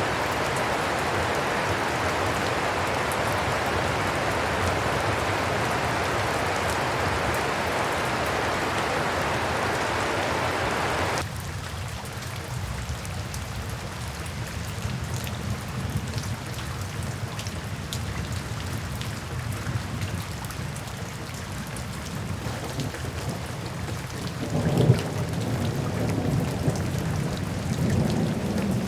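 Steady rain falling, with an abrupt change about a third of the way through to a softer rain sound over a low rumble. Thunder rumbles in near the end, with one louder clap.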